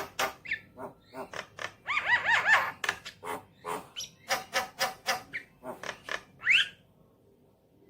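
Javan myna singing a rapid chattering song of sharp clicks and harsh notes, with a run of arched whistled notes about two seconds in and a rising whistle near the end; the song stops about a second before the end.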